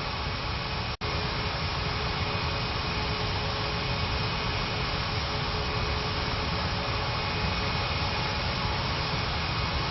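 Steady rushing noise inside an Airbus A319 airliner, from its engines and air-conditioning, with a few faint steady tones. The sound cuts out for an instant about a second in.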